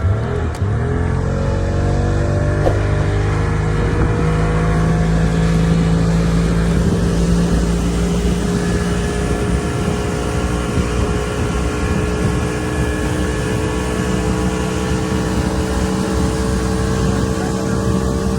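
Speedboat engine running at speed over rushing water and wind noise. Its pitch climbs over the first few seconds, then holds steady.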